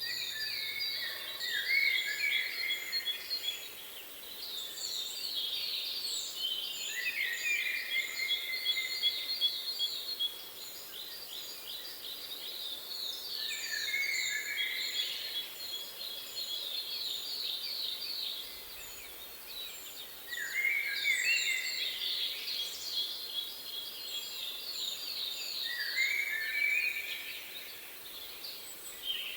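Several songbirds singing and chirping: rapid trills and high, short notes, with phrases repeating every few seconds over a faint steady hiss.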